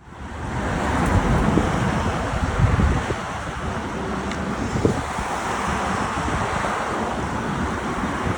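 Wind buffeting the microphone on a moving e-bike: a steady rushing noise, with a heavier low rumble in the first few seconds.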